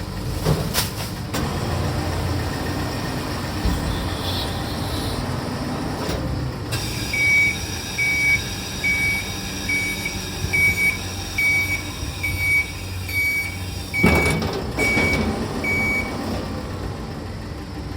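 ShinMaywa G-RX rotating-plate garbage truck running its engine and hydraulics during a dump discharge. From about a third of the way in, a high warning beeper sounds about every 0.6 s for some nine seconds, with a heavy clunk near the end of the beeping.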